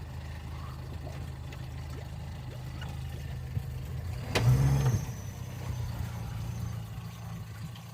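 A boat engine running steadily at low speed, with one loud thump about four and a half seconds in.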